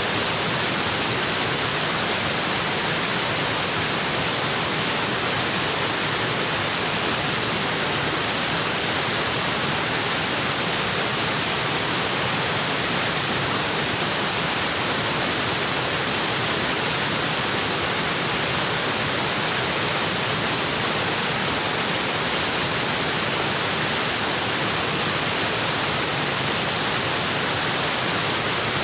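Waterfall: water falling onto rocks, a steady, unbroken rush.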